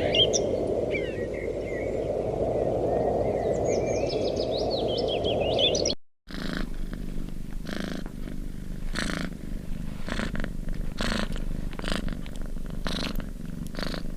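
An animal's low, continuous rumble, with birds chirping above it. After a sudden brief cut about six seconds in, it gives way to a low rumble that pulses roughly once a second.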